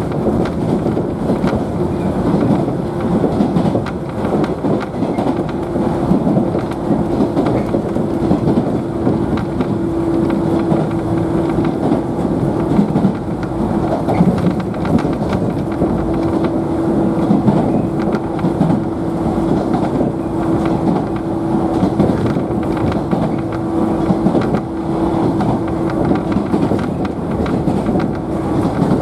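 JNR 113 series electric train running at speed, heard from inside the motor car: a steady rumble of wheels on rail with a steady hum from the traction motors and gears.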